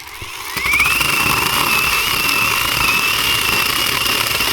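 Zhipu 48V cordless chainsaw running at full speed, its electric motor whine rising as it spins up about half a second in and then holding steady.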